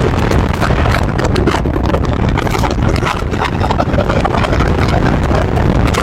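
BMW X5 travelling at highway speed: a steady rumble of tyre and wind noise, with rapid gusty flutter.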